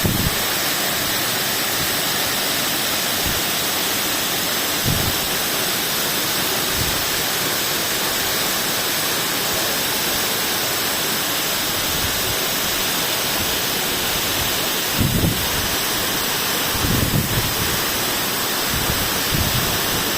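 Waterfall pouring: a steady, loud rush of falling water, with a few brief low rumbles scattered through it.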